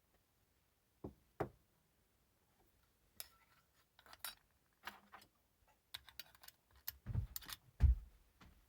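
Metal parts of an Autopress pressure coffee machine being handled, with scattered clicks and clinks. There are two knocks about a second in and two heavier thumps near the end, the last one the loudest.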